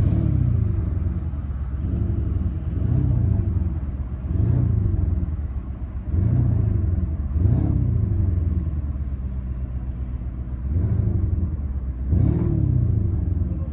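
Lamborghini Urus twin-turbo V8 with an Akrapovic exhaust being revved while standing: about eight short blips of the throttle, each rising and falling back to a deep idle, with a longer stretch of idle about two thirds of the way through.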